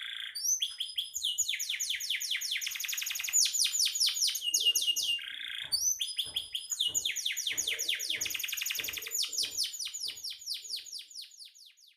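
Domestic canary singing a continuous song of rapid rolling trills, each made of quickly repeated downward-sweeping notes, with short buzzy notes between phrases. It fades out near the end.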